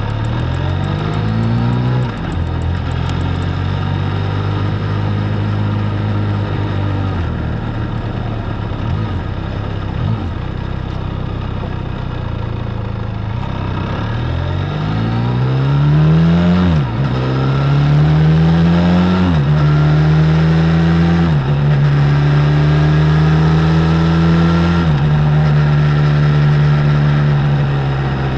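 Benelli Leoncino 500's parallel-twin engine through its stock exhaust, pulling up through the gears. The engine note rises and drops back at each upshift, once about two seconds in and several times in the second half, with a long stretch of steady cruising in between.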